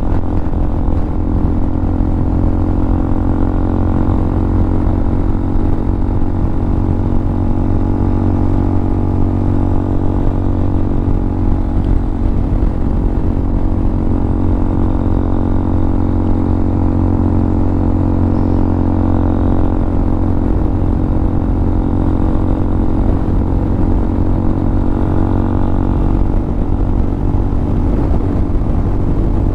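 Hawk 250 motorcycle's single-cylinder engine, fitted with a Motocults stage 4 kit, running at a steady pitch while cruising at about 43 mph, with a low road and wind rumble under it.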